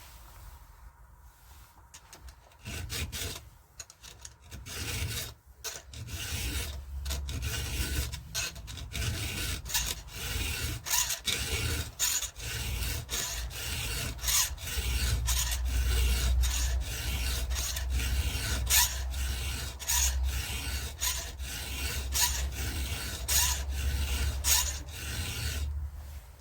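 Hand file rasping against a chainsaw chain's cutters in repeated back-and-forth strokes, about one to two a second, starting a couple of seconds in: the chain is being sharpened by hand.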